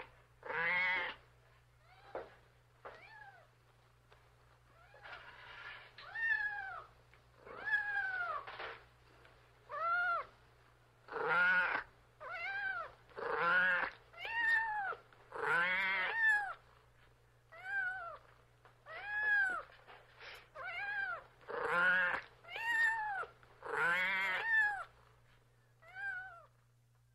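Domestic cat meowing over and over, about one meow a second, each call rising and then falling in pitch, over a steady low hum.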